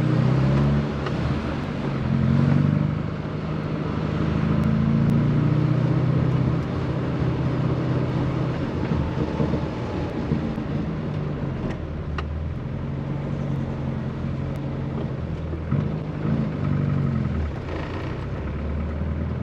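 Rover Mini's A-series four-cylinder engine running as the car is driven, its note rising and falling several times with changes of speed, over road and tyre noise.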